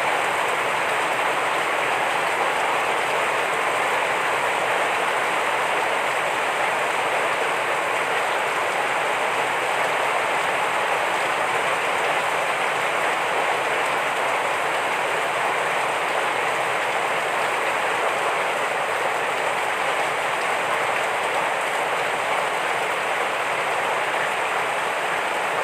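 Heavy rain falling steadily, a constant even hiss with no let-up.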